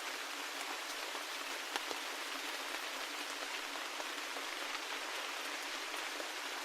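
Steady rain, an even hiss with many individual drops ticking sharply on a surface.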